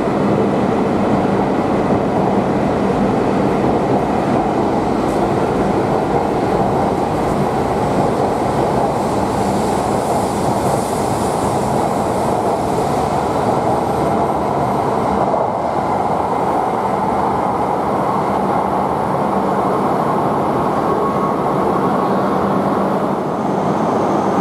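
Shinkansen train at the station platform: a steady, loud rumble with a faint constant hum running under it, unchanging throughout.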